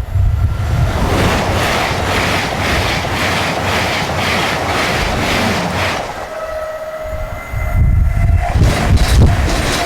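A freight or passenger train passing close by, its wheels clattering over the rail joints in an even rhythm of about two to three beats a second; the clatter fades about six seconds in.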